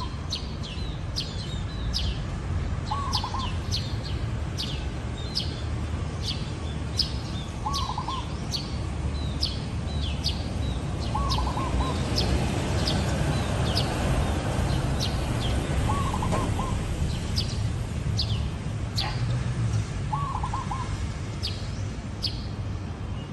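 Zebra dove giving its short, rolling coo phrase about every four to five seconds, against many quick, high chirps from other small birds and a steady low rumble.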